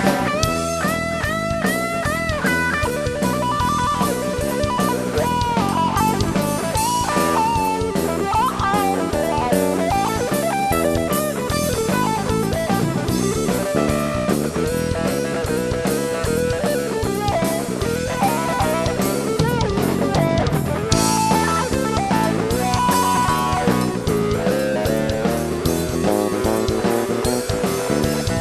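Blues band playing an instrumental passage: an electric guitar lead with bent notes over bass guitar and drum kit.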